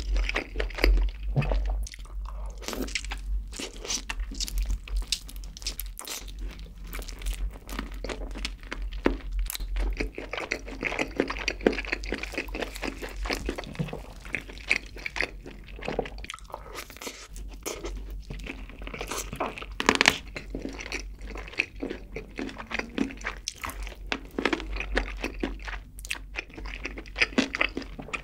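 Close-miked chewing and crunching of barbecue-glazed grilled chicken leg, a steady run of wet, crackly mouth sounds.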